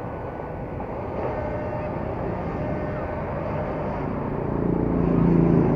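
Yamaha R15 motorcycle ride: engine running under steady wind and road noise, with a low engine drone growing louder about four and a half seconds in.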